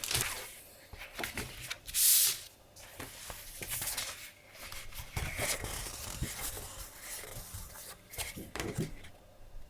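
Sheets of decorative paper being handled: soft rustling and sliding with small taps, and a louder swish about two seconds in.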